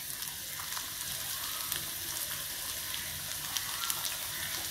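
Freshly grated coconut with fennel, cumin, garlic and ginger frying in hot coconut oil in an iron cheenachatti: a soft, steady sizzle with a few scattered small crackles. The coconut has just gone in, at the start of its roasting until browned.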